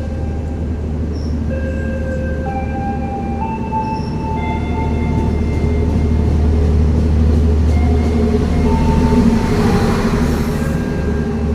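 Passenger train running past: a steady low rumble with several high steady tones that shift in pitch, growing louder towards the middle and ending with a brief hiss.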